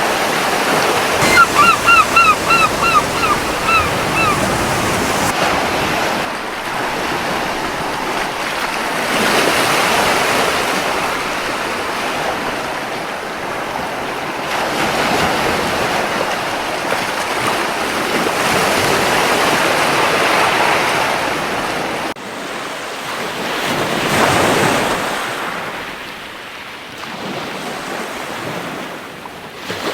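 Surf washing onto a beach in slow swells, with wind. Near the start a seagull gives a quick series of about eight short calls.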